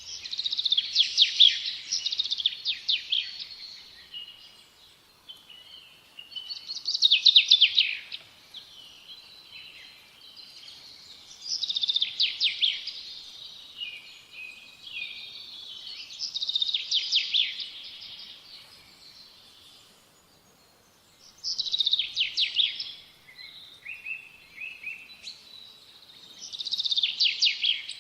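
A songbird singing the same quick trilled phrase over and over, roughly every five seconds, with softer chirps in between.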